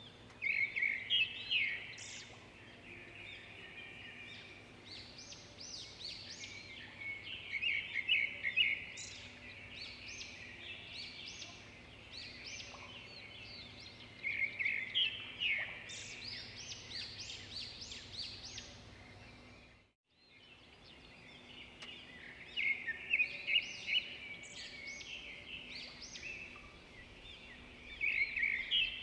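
Swiftlets twittering: bursts of rapid, high chirping every few seconds over a steady low hum, with a brief dropout about twenty seconds in.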